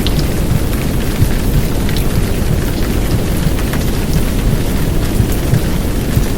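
Heavy downpour of rain, a dense steady hiss with a deep low rumble and scattered drop ticks.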